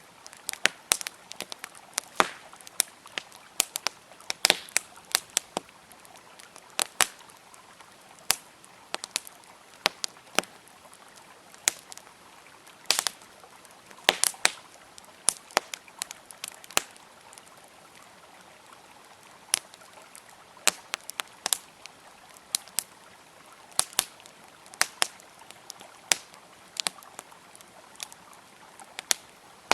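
Wood fire crackling, with irregular sharp pops and snaps of burning wood over the faint steady rush of a flowing river.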